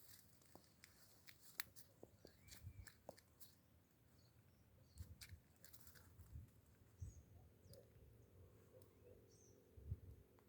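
Near silence: faint outdoor ambience with a few short, faint bird chirps, scattered light clicks and low thumps of handling.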